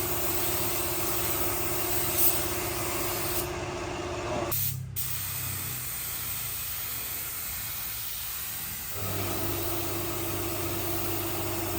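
Spray gun hissing over the steady hum of a running machine, typical of finish spraying with compressed air. The hiss cuts out for about four seconds midway, leaving a low hum, then resumes.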